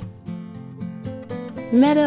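Soft background music led by plucked acoustic guitar, with a woman's voice starting again right at the end.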